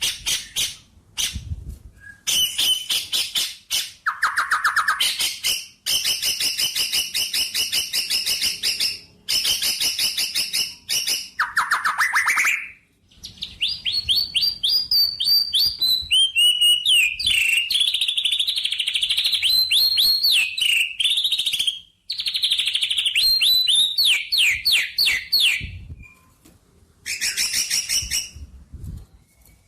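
Songbirds chirping in rapid trills of repeated high notes, with runs of fast rising and falling sweeps, broken by a few short pauses.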